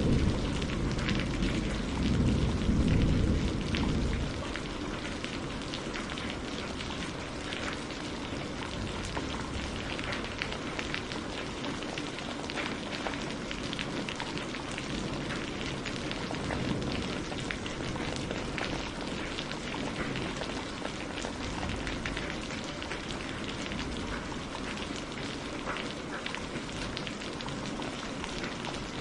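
Steady rain falling, a dense even patter of drops. A low rumble dies away over the first few seconds.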